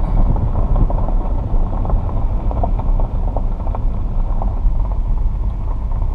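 Steady low rumble of a car driving slowly, heard from inside the cabin, with scattered faint ticks and crackles over it.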